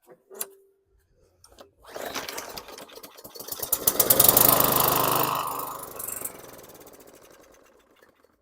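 Craftsman M100 push mower's small single-cylinder engine catching and running briefly. It climbs to full speed, then loses power and fades out as it stalls; the fuel problem is not yet cured.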